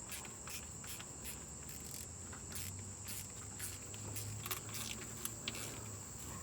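Crickets chirping steadily in a fast, regular pulse of about three chirps a second, with a few faint clicks near the middle.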